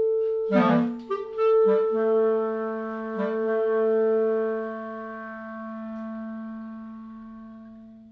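Clarinet playing the closing phrase of a contemporary classical piece: a few quick notes, then long held tones that slowly fade away near the end.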